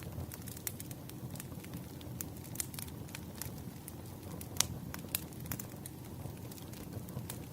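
Wood fire crackling: irregular sharp snaps and pops, a louder pop about halfway through, over a steady low rumble.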